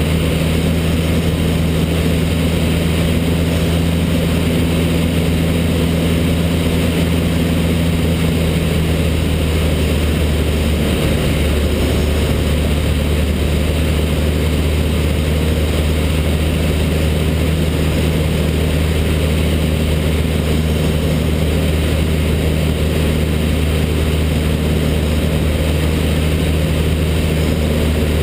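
Cessna 152's four-cylinder Lycoming engine and propeller running steadily in flight, a constant low drone. The engine note shifts slightly about eleven seconds in.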